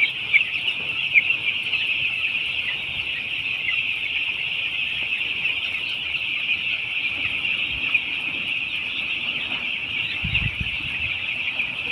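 A large flock of young chicks peeping continuously, a dense, high chorus of many overlapping cheeps. A few low rumbles come in near the end.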